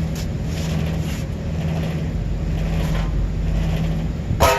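Steady mechanical hum with a constant low tone, from rooftop equipment running. A low rumble strengthens about two seconds in, and a brief sharp sound comes near the end.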